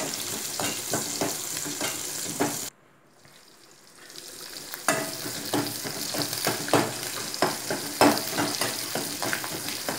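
Shallots and curry leaves sizzling in hot oil in a metal kadai, with a steel ladle scraping and clinking against the pan as they are stirred to brown. The sizzle cuts off suddenly a little under three seconds in, comes back faintly and swells, and the stirring clinks return about five seconds in.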